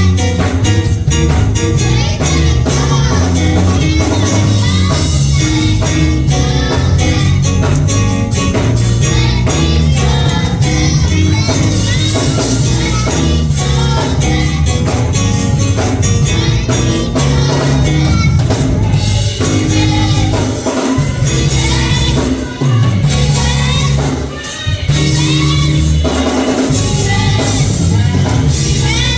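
Live gospel music: singing over a band with a heavy bass line and a steady beat.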